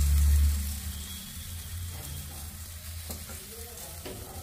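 Batter-coated Malabar spinach leaf frying in a little oil on a hot tawa: a sizzle that is loud at first, settles within about a second to a steady, softer hiss, with two light clicks near the end.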